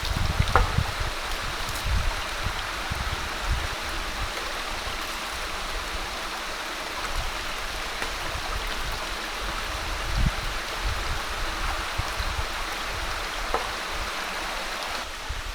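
Steady rush of running water, with irregular low bumps underneath.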